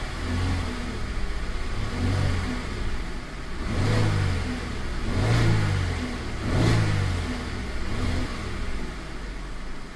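2008 Cadillac SRX's 3.6-litre V6 idling and blipped up in revs about six times, the three biggest revs near the middle. The revving works the camshafts, which are now moving on the scan data.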